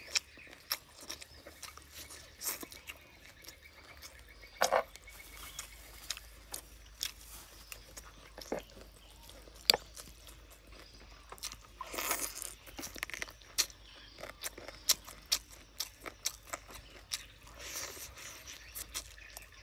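A person biting and chewing grilled chicken close to the microphone: irregular clicks and crunches, a few noticeably sharper than the rest.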